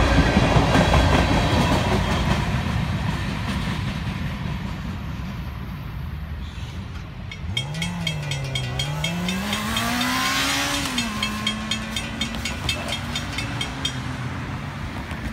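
The tail end of a freight train rolls past, its wheel-on-rail rumble fading over the first few seconds. Then a grade-crossing bell rings rapidly and steadily as the gates go up, while a road vehicle's engine revs up and settles to a steady run.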